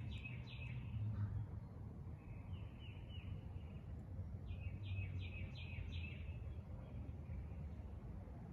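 A songbird singing three short phrases of quick, down-slurred chirping notes, with a low steady rumble underneath.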